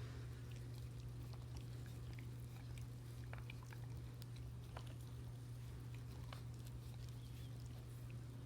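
Blue heeler chewing and gnawing corn on the cob, a run of scattered crunches and clicks. A steady low hum lies underneath.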